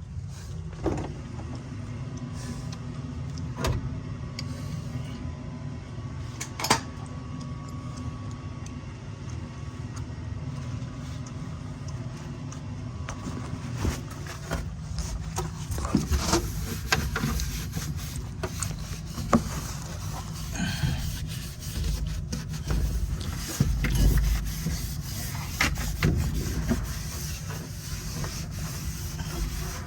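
Knocks, rubbing and scraping from cleaning dust off a dirty furnace blower wheel by hand, busier in the second half, over a steady low hum.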